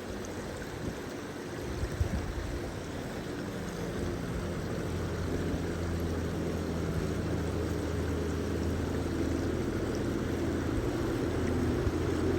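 A motor's steady droning hum, slowly growing louder, over a rushing background noise.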